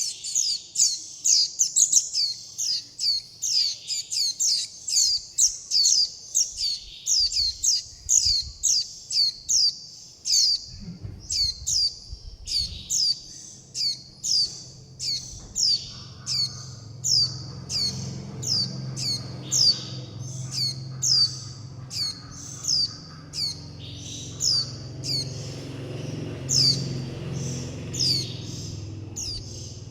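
Fledgling white-eye giving rapid, high, downward-sweeping call notes, about two or three a second, the begging and contact calls a young white-eye uses to call its parents and flock. A low steady hum sits underneath from about a third of the way in.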